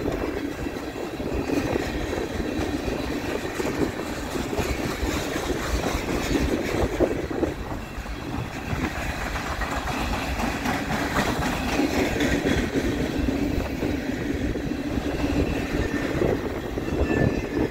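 Freight train cars rolling past close by: the steady rumble and clatter of steel wheels on the rails as boxcars, covered hoppers and double-stack container cars go by.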